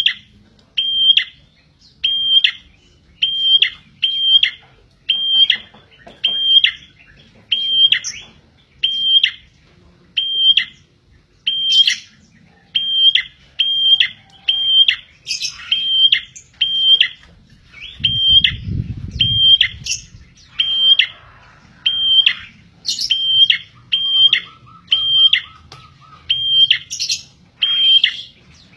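Prinia (prenjak) calling over and over: a short, high, flat whistled note that drops sharply at its end, repeated about once a second, the kind of call played to lure birds in. A brief low rumble comes about two-thirds of the way through.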